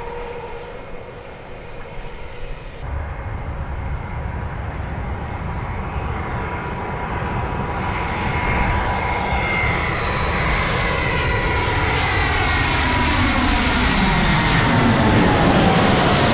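Jet airliner's engines growing steadily louder as it approaches and passes, a steady whine over a low rumble, with the whine dropping in pitch near the end as it goes by.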